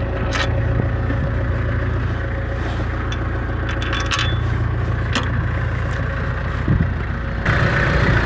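Tractor engine running steadily, with scattered sharp metallic clinks and rattles over it; the engine noise grows louder about seven and a half seconds in.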